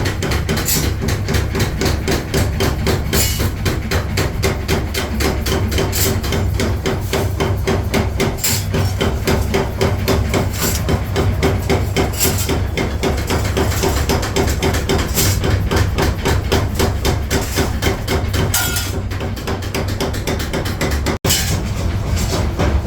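Rapid, steady hammering on steel, many even blows a second, as a masonry trowel is forged; the rhythm breaks off for an instant near the end.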